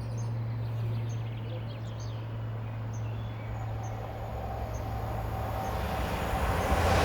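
A Class 350 Desiro electric multiple unit approaching, its noise growing steadily louder over the last couple of seconds. Birds chirp faintly in the background.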